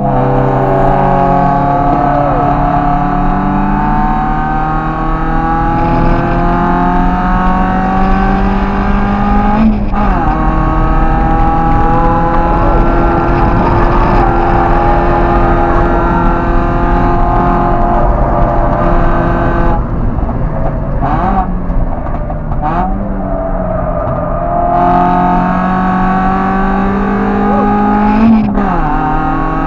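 A car engine heard from inside the cabin under hard acceleration, its pitch climbing steadily through each gear. The pitch drops sharply at quick upshifts about ten seconds in and near the end. Around two-thirds through it lifts off, with short rev blips for downshifts, then pulls hard again.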